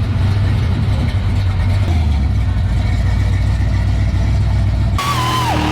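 Deep, steady rumble of a supercharged Dart LSX V8 in a 1991 GMC Syclone pickup. About five seconds in, the sound cuts abruptly to another recording with a high, falling squeal.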